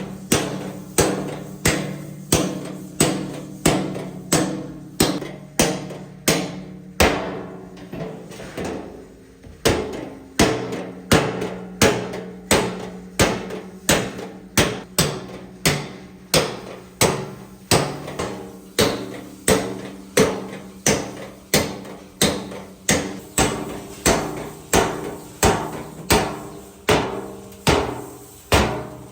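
A hammer striking steel sheet at a steady pace of about two blows a second, each blow ringing. The strikes grow lighter for a couple of seconds around a third of the way in.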